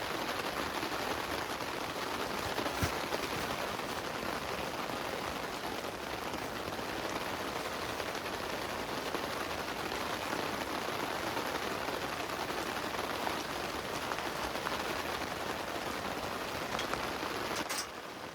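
Heavy rain falling steadily, with a single sharper drop or tap about three seconds in. Near the end the rain abruptly becomes quieter.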